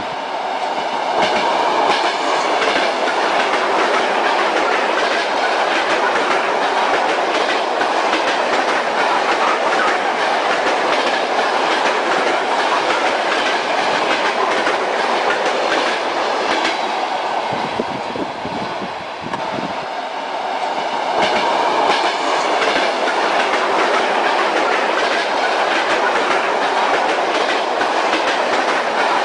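Railway train running along the track, its wheels clicking over the rail joints in a continuous clickety-clack, easing off slightly for a few seconds past the middle.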